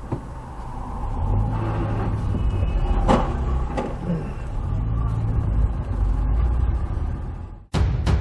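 Road vehicle running in traffic, a steady low rumble, with two sharp knocks about three and four seconds in. The sound cuts off abruptly near the end.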